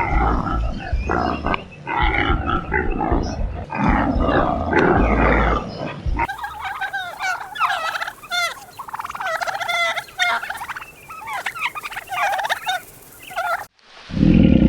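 Turkeys gobbling: rapid runs of short, wavering notes. Before them, for about the first six seconds, a different clip of low, rough animal calls, which cuts off abruptly.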